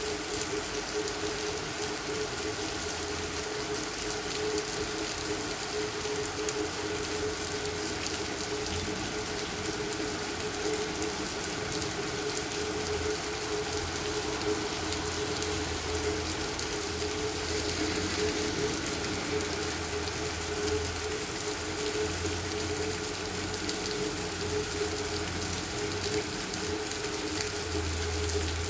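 Steady rain falling on pavement and puddles, an even hiss with many small drop taps, and a steady low hum underneath.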